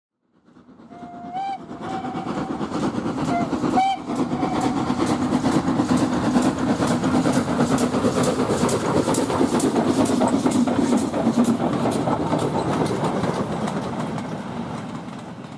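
A train sounds two short whistle blasts in the first few seconds, then runs past with a rhythmic clatter of wheels over rail joints, fading out near the end.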